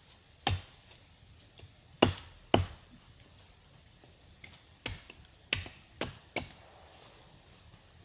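Hand-tool blows on wood: about seven sharp, irregular knocks like chopping or hammering, the loudest pair about two seconds in.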